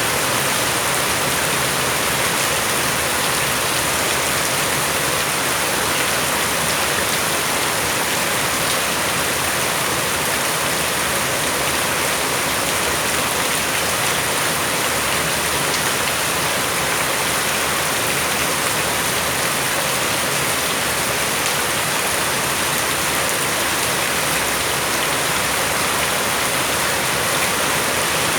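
Rain falling steadily, an even hiss of many drops with no change.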